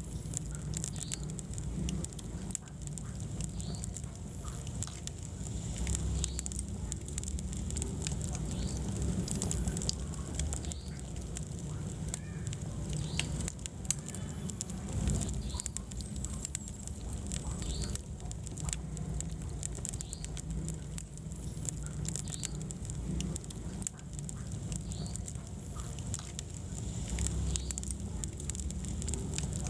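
Wood fire burning in a fireplace: a steady low rumble with scattered crackles and pops from the burning logs.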